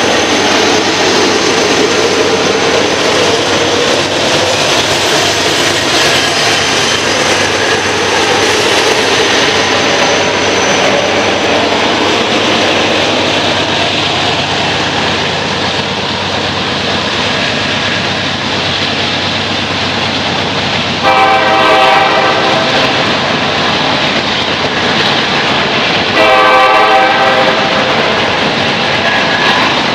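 Norfolk Southern freight train passing close by under throttle: diesel locomotives, among them an SD70 and a GE C40-9W, running hard, then the first hopper cars rolling on the rails. A train air horn sounds two blasts in the second half, each just over a second long.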